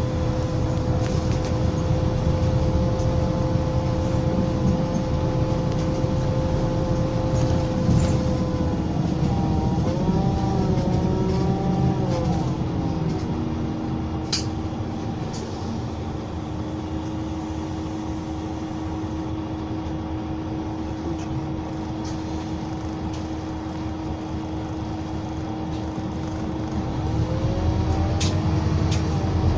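Scania K320 bus's 9.3-litre DC9 diesel engine and ZF Ecolife automatic gearbox heard on board while under way, with a steady whine. The engine eases off about halfway and runs quieter for a while, then builds again near the end as the bus pulls away. A few sharp rattles cut through the sound.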